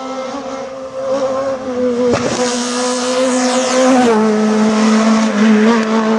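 Rally car engine held at high revs with a steady pitch, dropping slightly about four seconds in, with a sharp crack about two seconds in.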